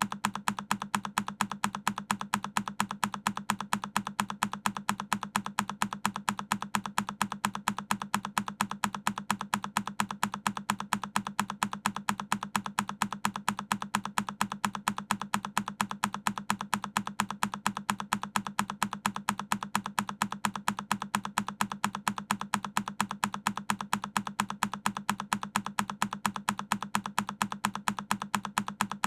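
A single key press on a Keychron K10 mechanical keyboard, a sharp clicky clack, looped so that it repeats at an even, rapid rate a few times a second.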